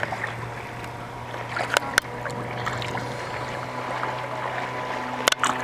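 Steady low mechanical hum, with a few sharp clicks: two close together about two seconds in and one near the end.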